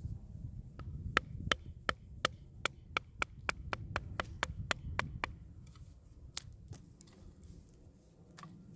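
Chopping wood: a run of about a dozen sharp, evenly spaced strikes, two to three a second, then a few scattered ones.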